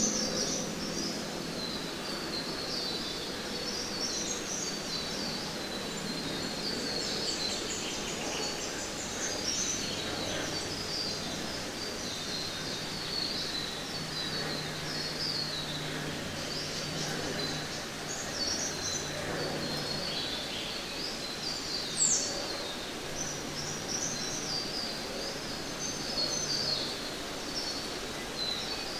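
Rainforest ambience: many birds chirping densely and continuously with insects, over a steady background hiss, with one sharp rising chirp near the middle.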